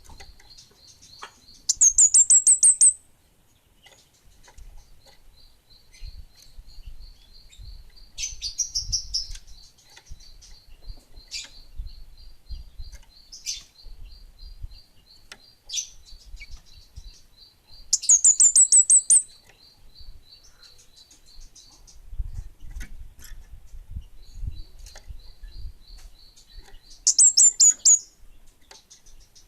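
A kemade bunga api songbird singing, with three loud, rapid, high trills that rise slightly in pitch, each lasting about a second. Between the trills runs a long series of soft, evenly repeated high notes, with a few single sharp chips.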